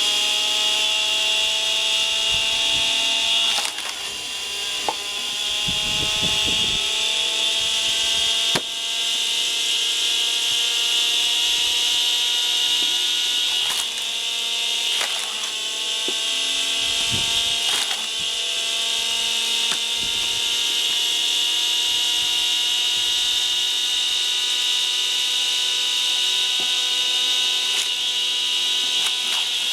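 The washing-machine motor of a screw-cone log splitter whines steadily at high speed. Its pitch sags each time the cone bites into the birch log, then climbs back, and sharp cracks sound several times as the wood splits.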